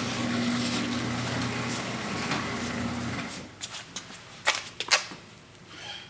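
A steady low hum that cuts off about three seconds in, followed by two sharp clicks about half a second apart.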